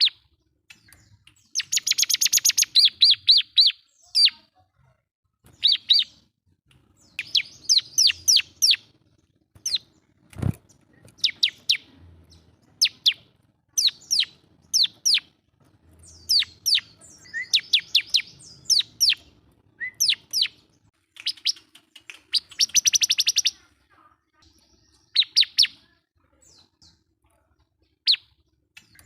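Bar-winged prinia (ciblek) singing in full voice, calling at a rival: repeated bursts of rapid, sharp high notes, each phrase a second or two long, with short pauses between. A single dull thump about ten seconds in.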